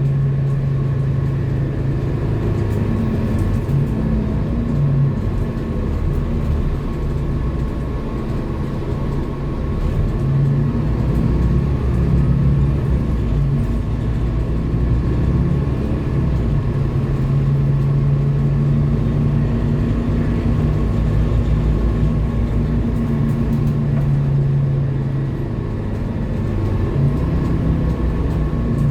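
Scania K230UB Lahti Scala city bus diesel engine running under way, its low note rising and falling several times as the bus speeds up and slows, with a faint steady whine above it.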